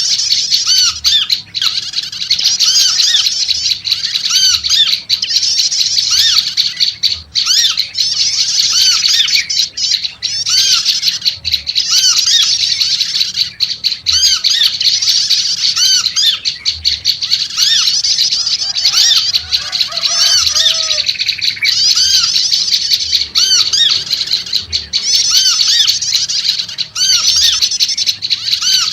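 Prenjak lumut (a small Indonesian prinia-type songbird) calling noisily in a dense, continuous chatter of quick, high, arched notes, repeated without pause. A few lower, softer notes come through about two-thirds of the way in.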